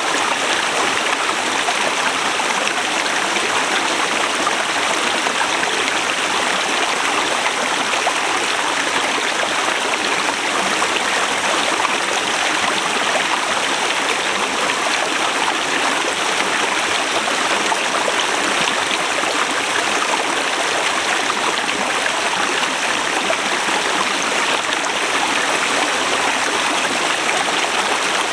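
Forest river flowing over rocks: a steady, unbroken rush of water.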